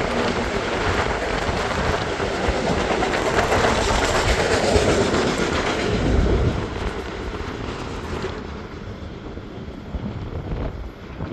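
Long Island Rail Road train passing close by, its wheels running on the rails; the sound fades as it moves away in the last few seconds.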